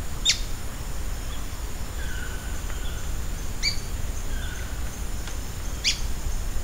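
Ochre-bellied flycatcher (abre-asa) calling: sharp notes that drop steeply in pitch, one near the start, one about three and a half seconds in and one near the end, with fainter short level whistles between them, over a steady low rumble.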